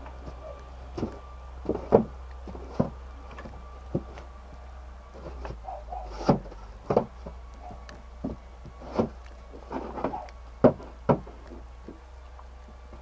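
Irregular knocks and clunks, a dozen or so scattered sharp impacts with the loudest about two seconds in and near the eleven-second mark, over a steady low hum.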